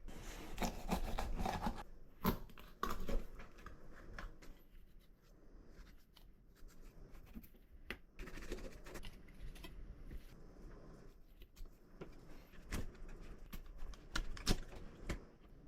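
Scattered small clicks, scrapes and rustling of things being handled, with a few sharper clicks, rather than any steady sound.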